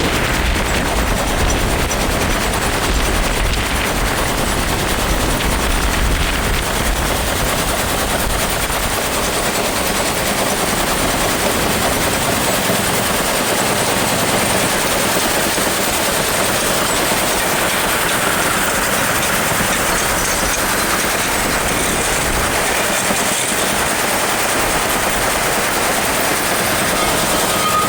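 Shaker table running, a steady fast rattle of dirt and stones jostling across its screen, with wind buffeting the microphone as a low rumble in the first few seconds.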